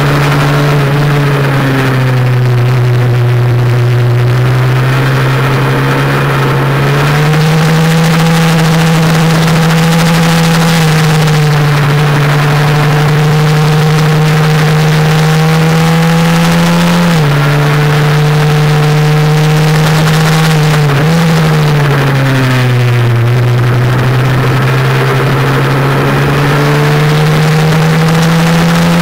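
Honda NSF100 minibike's single-cylinder four-stroke engine running hard on track, its pitch climbing and falling through the lap, with sudden drops near the start and about 17 and 21 seconds in.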